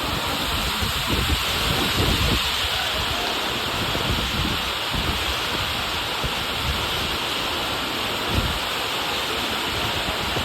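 Heavy rain pouring steadily, with gusts of wind buffeting the microphone, heaviest about one to two seconds in, and a brief low thump of wind about eight seconds in.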